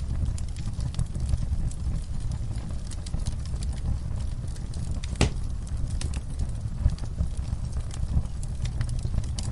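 Wood fire crackling in a fireplace: a low steady rumble of the flames with scattered small crackles and one sharp pop about halfway through.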